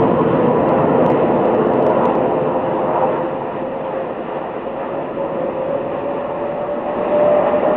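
Jet engine noise from a formation of Hongdu L-15E jet trainers flying past, a steady loud rush with a whine that rises a little in pitch near the end.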